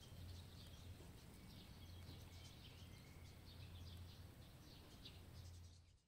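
Faint birds chirping in scattered short calls over a low steady hum. The sound drops out at the very end.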